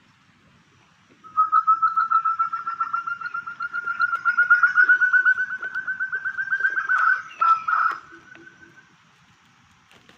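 Forest quail (puyuh hutan) call: a long rapid series of whistled notes that rises slightly in pitch for about six seconds, ending in a few louder notes.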